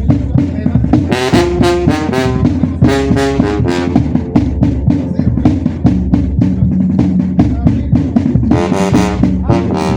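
Mexican banda brass band playing: trombones and trumpets play short melodic phrases over a steady low bass line and a regular drum beat.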